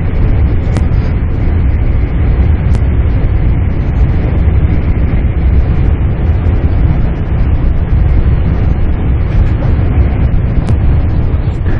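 Max Toki double-decker Shinkansen train running at speed, heard from inside the passenger cabin: a steady low rumble of wheels on track with rushing air, and a few faint ticks.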